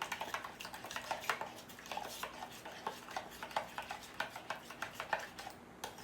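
Marinade being mixed: a utensil clinking and scraping against a dish in quick, irregular strokes, a few knocks a second.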